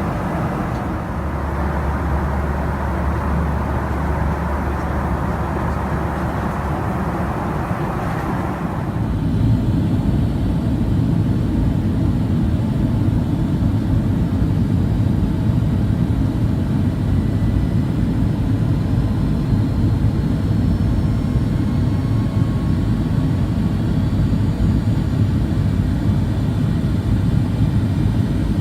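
Jet airliner cabin noise: a steady rush of engine and airflow noise. About nine seconds in, the sound changes suddenly to a deeper, louder rumble with faint whines slowly rising in pitch.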